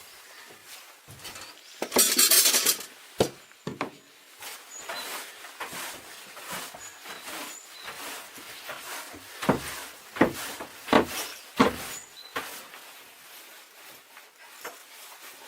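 Handling and knocking sounds: a short loud scraping rush about two seconds in, then four sharp knocks about a second apart near the middle, with small rubs and clinks between.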